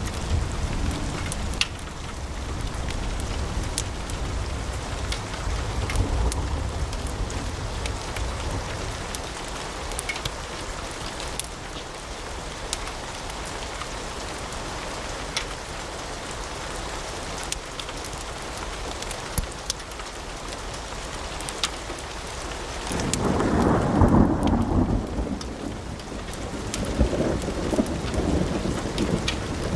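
Wood fire burning in a fireplace: a steady hiss of flames with frequent sharp crackles and pops. A louder, deeper rush of sound swells up for a few seconds about three-quarters of the way through.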